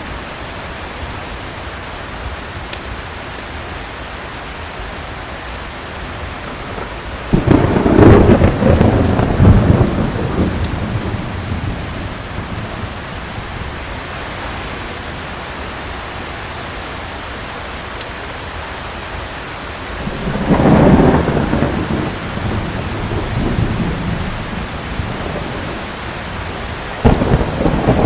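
Heavy rain falling steadily, with three rolls of thunder. The first starts with a sudden crack and rumbles for a few seconds about seven seconds in, the second swells up around twenty seconds, and the third breaks sharply near the end.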